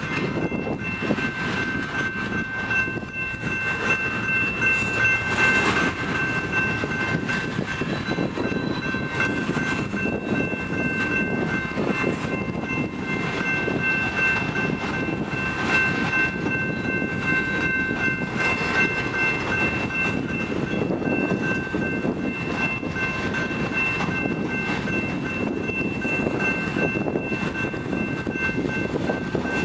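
Loaded covered hopper cars of a grain train rolling slowly through a grade crossing, with a steady rumble and wheels clicking over rail joints. A steady high tone runs over the rumble.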